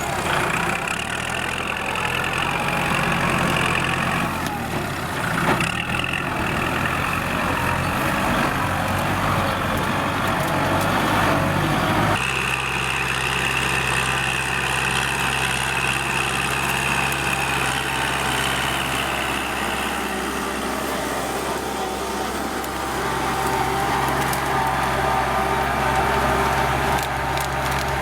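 Kubota L4708SP tractor's diesel engine running steadily while ploughing. About twelve seconds in, the engine note changes abruptly and then holds steady.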